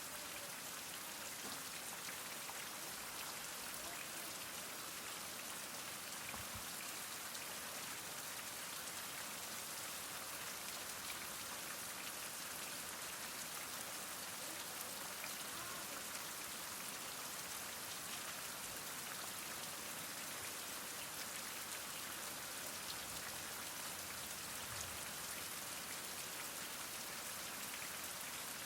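Heavy rain falling steadily: an even hiss with scattered individual drop hits.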